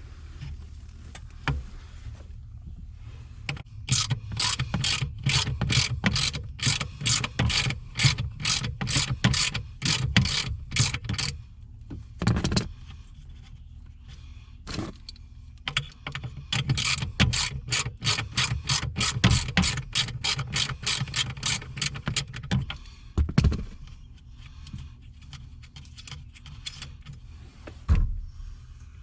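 Socket ratchet clicking in two long runs of rapid, even clicks, about four or five a second, with a few single knocks between. This is the sound of a nut or bolt on the gas pedal mounting being turned.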